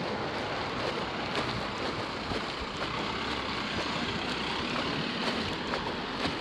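Steady rushing noise of road traffic, with a few faint clicks.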